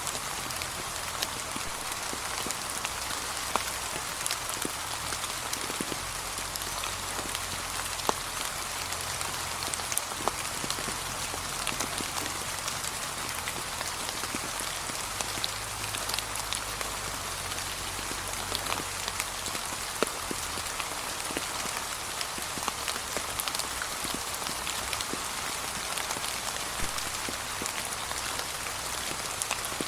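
Gentle, steady rain falling on fallen autumn leaves, an even patter with scattered louder single drops.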